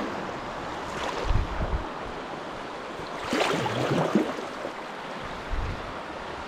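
Shallow river current rippling and splashing around a packraft, with louder splashes about a second in and again about three seconds in.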